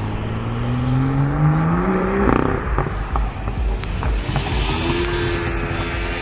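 A sports car engine revving hard as the car accelerates, its pitch climbing for about two seconds. Then a gear change with a few sharp cracks from the exhaust, and the engine note climbs again near the end.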